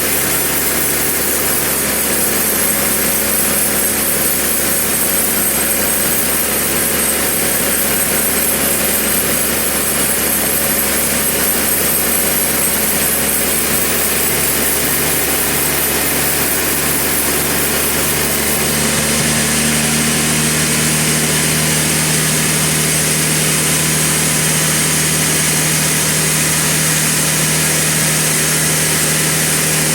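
Sawmill machinery running steadily with a loud engine hum. The engine note changes about two-thirds of the way through.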